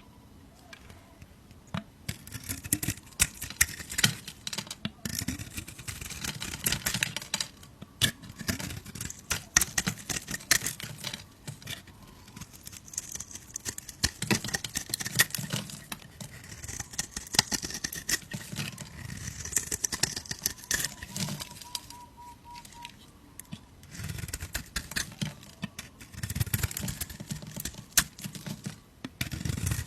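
Bars of soap being cut with a knife: crisp crackling and crunching made of many small clicks as the blade goes through, coming in spells with short lulls between cuts.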